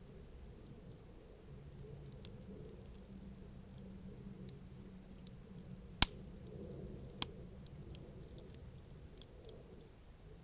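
Wood fire crackling faintly with scattered small ticks. A single sharp pop about six seconds in and a smaller one a second later.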